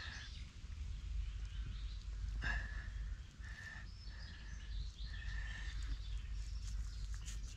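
A bird calling in short notes of one steady pitch, repeated about once a second, over a low steady rumble of wind on the microphone. A few light crackles come near the end.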